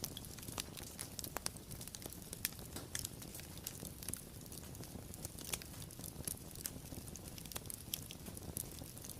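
Wood fire crackling: a steady low rumble of burning with frequent irregular sharp snaps and pops.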